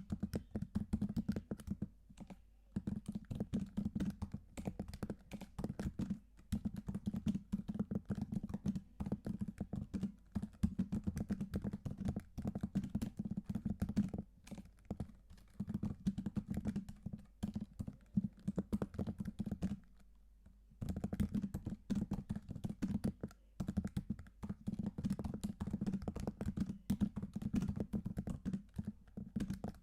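Steady typing on a computer keyboard: a dense run of key clicks broken by a few brief pauses, the longest about two-thirds of the way through.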